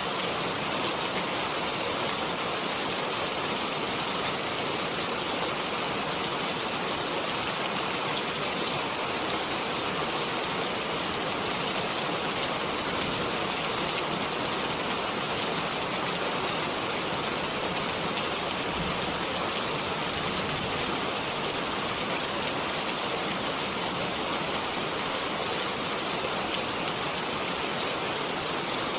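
Steady rain falling in a dense, even hiss with no breaks.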